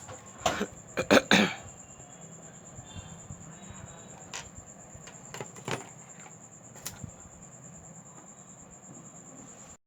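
Several sharp taps and knocks of handling and tools at a repair bench, loudest in a quick cluster about a second in and fainter ones later, over a steady faint high-pitched whine.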